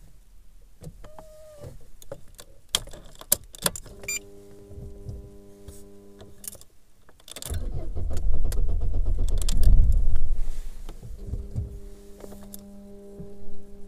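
Keys jangling and clicking in the ignition of an Opel Vectra B, then a steady electrical hum. About halfway through, a loud low rumble for several seconds as the 1.6 16V Z16XE engine is cranked, and the steady hum returns near the end.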